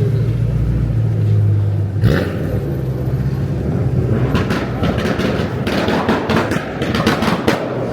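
Car engines running: a deep, steady exhaust drone for about two seconds, then a busier mix of engine noise with several sharp cracks in the second half.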